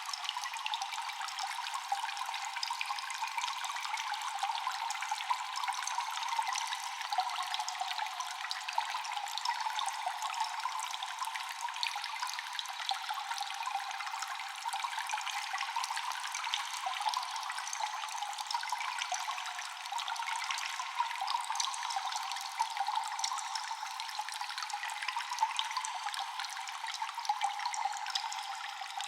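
Water dripping and trickling in a cave: a steady patter of many small echoing drops over a continuous trickle.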